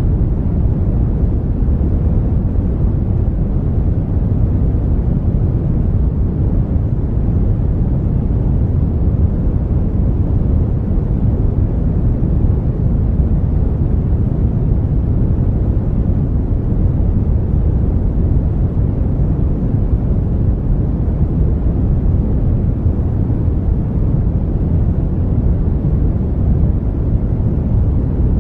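Brown noise: a steady, deep rushing hiss with most of its energy in the low end, unbroken and unchanging.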